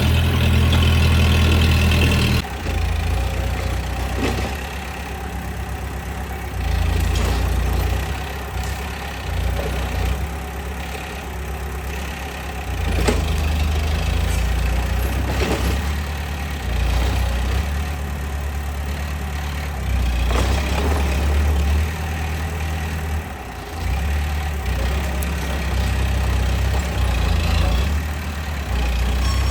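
Bulldozer's diesel engine running, its low note swelling and easing every few seconds as it works, with a few short knocks.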